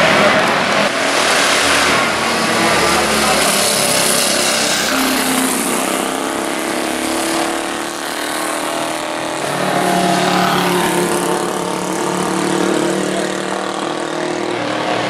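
Classic racing motorcycle engines running at race speed, their pitch rising and falling with throttle and gear changes, over a steady rushing hiss.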